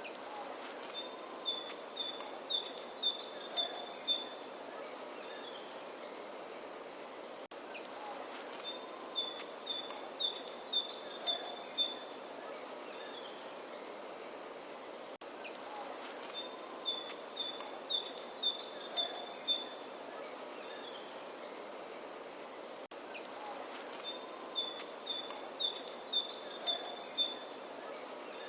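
A songbird singing the same high phrase again and again, about every seven to eight seconds: a few quick falling notes, then a rapid run of short notes alternating between two pitches. Behind it is a steady outdoor hiss.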